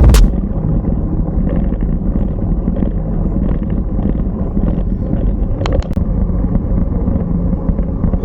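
Wind rushing over the microphone with a steady low road rumble during a bicycle ride, and two sharp clicks a little past halfway.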